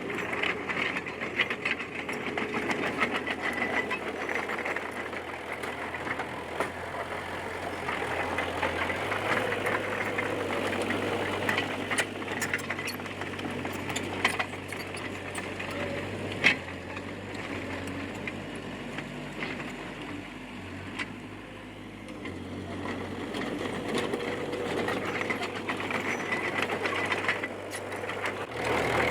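Komatsu D20P bulldozer's diesel engine running under changing load, its note shifting a few times, with frequent sharp clanks and knocks from the machine at work, one louder knock near the middle.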